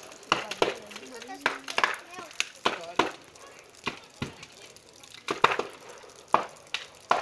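Large wood bonfire crackling, with sharp pops of burning wood coming irregularly, sometimes several a second; a few louder cracks stand out.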